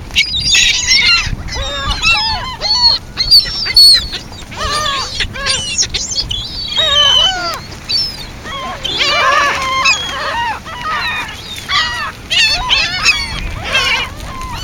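A flock of birds calling over one another: many short pitched calls overlapping without a break.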